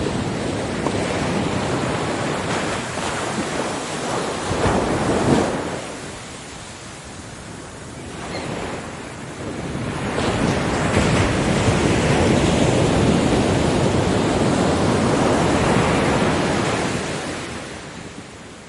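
Ocean waves breaking on a beach and washing up the sand: one wave surges about five seconds in and draws back, then a longer wave builds from about ten seconds in, holds, and recedes near the end.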